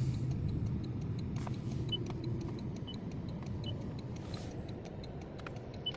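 Inside a moving car: steady low road and engine rumble, with a faint, regular ticking of about three ticks a second.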